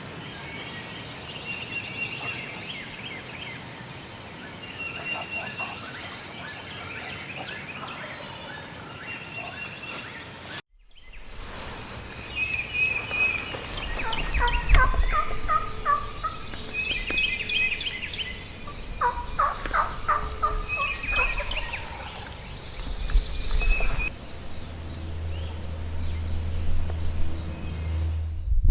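Wild turkey gobblers gobbling again and again, with songbirds chirping high and quick over them. The sound breaks off briefly about a third of the way in, and a low rumble comes in during the second half.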